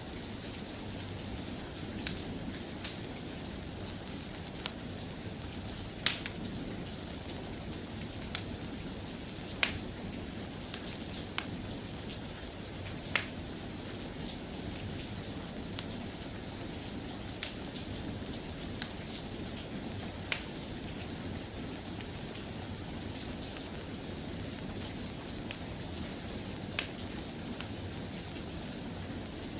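Steady, soft rain ambience with sharp pops from a crackling wood fire every second or few, at irregular spacing.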